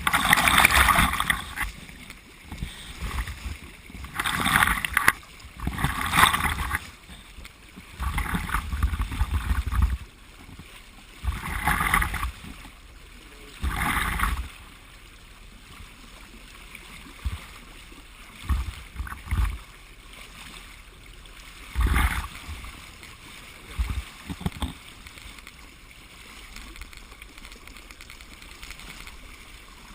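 Water rushing and splashing along the hull of a sailboat under way, in irregular bursts about a second long, louder in the first half.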